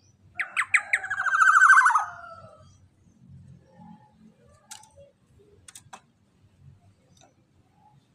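Black-naped oriole (kepodang emas) giving one loud call of rapid notes, lasting about two seconds and dropping in pitch at the end, followed by a few faint clicks.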